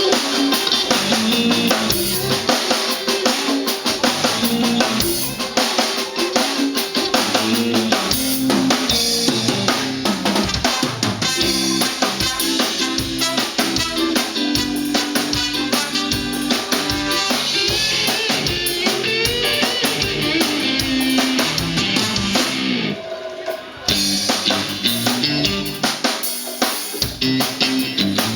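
Band playing loudly at a soundcheck: a drum kit with kick, snare and rimshots keeping a fast beat under electric guitar. The music drops out briefly near the end before picking up again.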